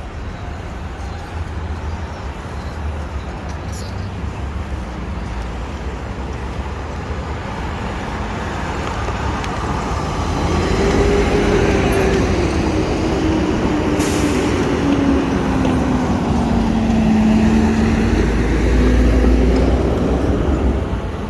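Heavy FDNY fire apparatus pulling away from the scene, their diesel engines running with a deep rumble that grows louder about halfway through. A pitched engine tone drops slowly and then climbs again, and there is a sharp, brief air-brake hiss about 14 seconds in.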